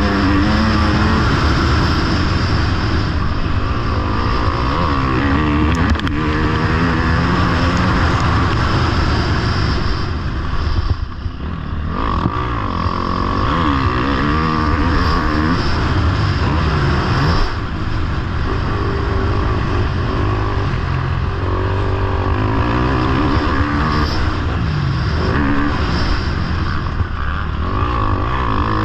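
Motocross bike engine revving hard, the pitch climbing and falling again and again as the throttle opens and closes. The revs drop away briefly about eleven seconds in.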